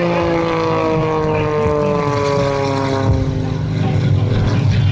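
CAP 232 aerobatic monoplane's piston engine and propeller at high power during a low pass, the pitch falling steadily over the first three seconds as the plane goes by.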